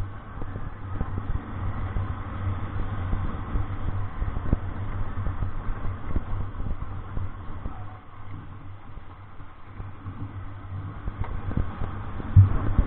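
Vehicle driving on a rough road: a steady low rumble with frequent knocks and rattles, and one louder bump near the end.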